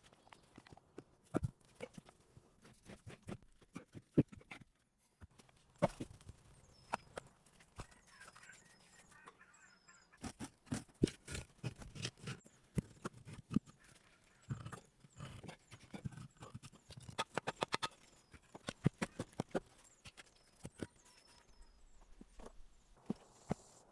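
Irregular sharp knocks and taps, some coming in quick runs of several a second.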